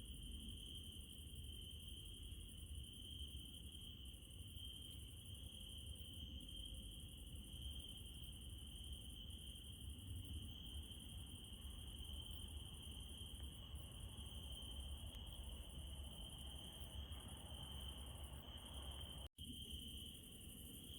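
Crickets trilling steadily in a night chorus, a high continuous shrill over a faint low rumble. The sound drops out for an instant near the end.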